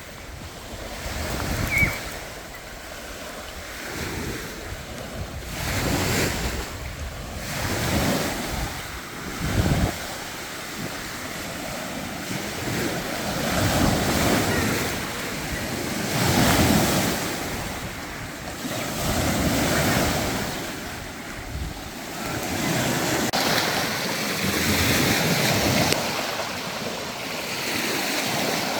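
Wind blowing in gusts and buffeting the microphone, with a rushing of water like small waves washing on a lake shore; it swells and eases every two or three seconds.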